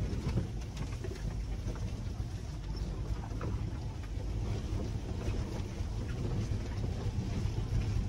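Land Rover 4x4 driving on an unpaved forest track: a steady low engine and road rumble with scattered knocks and rattles.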